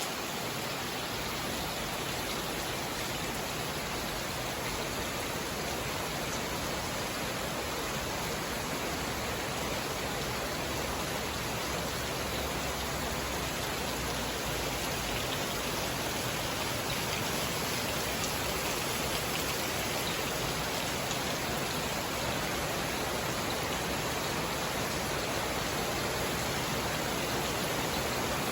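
Steady rain falling, a dense even hiss that grows slightly heavier toward the end.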